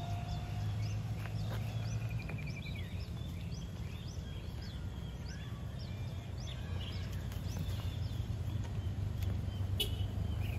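Outdoor ambience: a steady low rumble, with small birds chirping over and over and a short trill about two seconds in. A single sharp click comes near the end.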